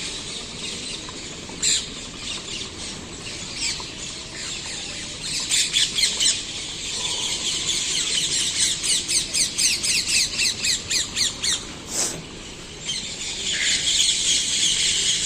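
A flock of birds calling in the trees: dense chattering with rapid runs of repeated high notes, thickest from about five seconds in and again near the end.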